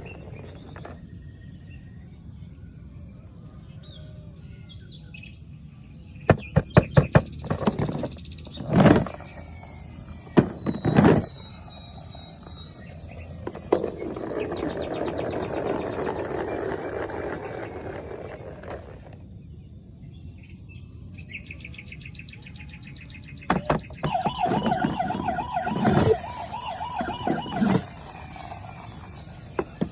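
Electronic toy siren wailing with a rapidly wavering tone near the end, mixed with sharp plastic clicks and knocks from toys being handled. A noisy hiss runs for several seconds in the middle.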